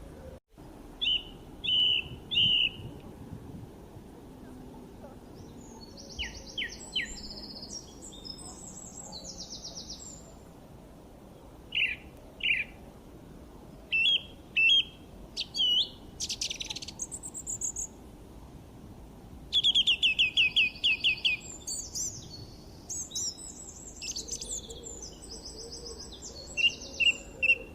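Songbirds chirping and singing in short, varied calls and trills, with a fast run of repeated notes about two-thirds of the way through.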